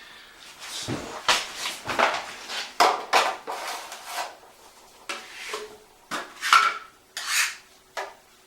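Metal drywall knife spreading and scraping joint compound over small holes in drywall: a quick series of short scraping strokes with light metal clinks.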